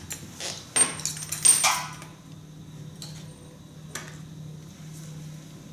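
Metal parts and tools clinking and scraping as an engine part is worked loose by hand: a cluster of sharp clinks in the first two seconds, then a couple of lighter taps.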